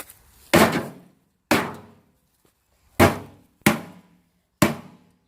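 A 3-pound sledgehammer striking an old microwave's metal casing, five hard blows at an uneven pace, each fading out over a moment.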